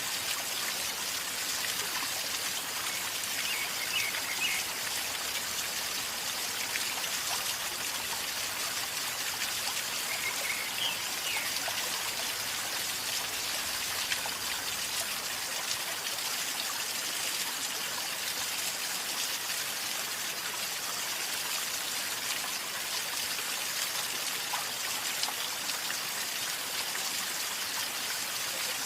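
A river flowing calmly, with steady gurgling and trickling water that stays even throughout.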